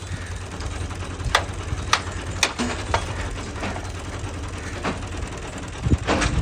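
Heavy vehicle engine running low and steady, with a run of sharp mechanical clicks about every half second and a thump near the end.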